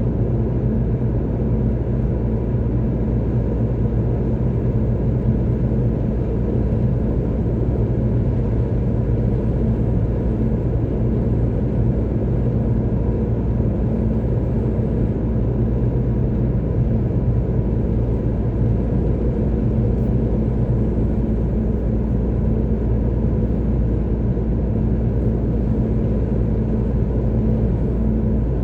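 Car driving along a motorway: a steady, unchanging low rumble of engine and tyre noise with a constant hum.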